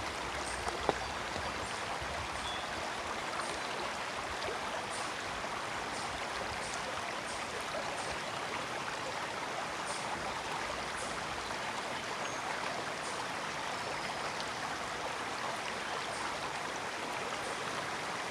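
Forest brook flowing steadily: an even rushing babble with small bright splashes scattered through it, and one sharp click about a second in.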